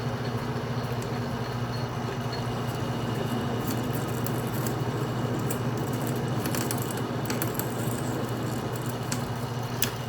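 Atlas metal lathe running a threading pass: a steady motor hum with scattered ticks and crackles as a single-point tool cuts an internal square thread in 304L stainless steel, peeling off a heavy coiled chip.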